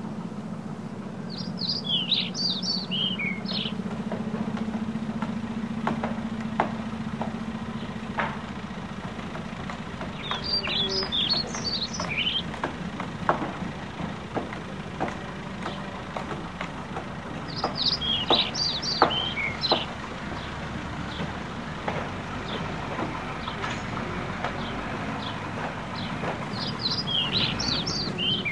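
A songbird sings the same short phrase of quick high notes four times, about every eight seconds, over a low steady hum and scattered knocks and clicks.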